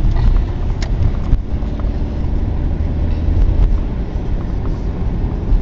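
Steady low road and engine rumble of a moving car heard from inside the cabin, with a single short click about a second in.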